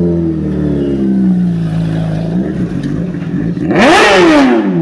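Superbike engine revving: the revs fall away over the first couple of seconds, then a sharp, loud blip of the throttle rises and drops back near the end.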